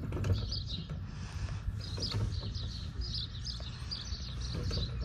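Small birds chirping repeatedly, short high calls over a steady low rumble, with a few faint thumps.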